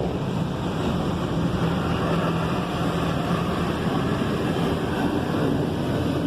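Steady rushing noise with a low hum, the ambient noise of an automatic car wash bay with the vehicle's engine running, before the wash cycle starts.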